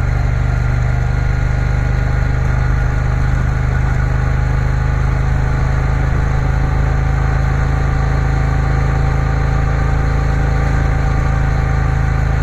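Triumph Bonneville T120's parallel-twin engine running at a steady speed as the motorcycle cruises along.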